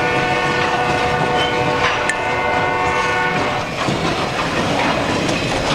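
Freight locomotive's multi-chime air horn sounding a steady chord that cuts off about three and a half seconds in, over the rumble and clickety-clack of the freight train's wheels on the rails.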